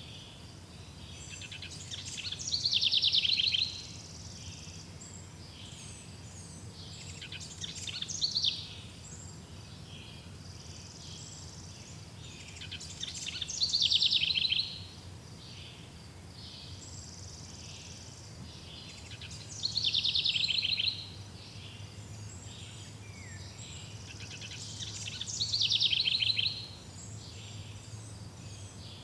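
Forest ambience: a songbird sings a short, rapid, high song phrase about every six seconds, five times, over a faint steady low hum.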